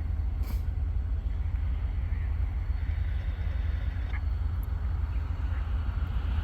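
Truck's diesel engine idling: a steady low rumble, heard from inside the cab.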